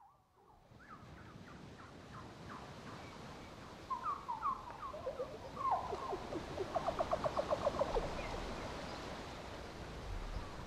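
Birds calling: short gliding chirps and whistles, with a fast run of repeated notes around the middle, over a steady rushing background noise.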